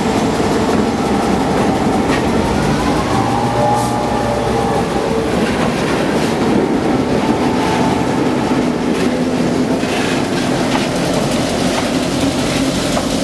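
Great Smoky Mountains Railroad locomotives passing close by: a loud, steady engine hum, with wheels clicking over the rail joints.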